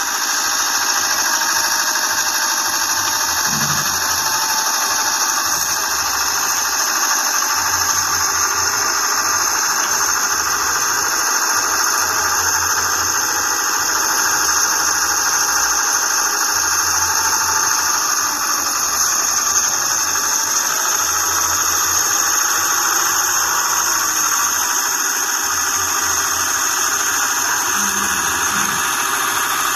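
Homemade excavator running, a loud steady high-pitched whine and hiss from its machinery, with low rumbles coming and going underneath.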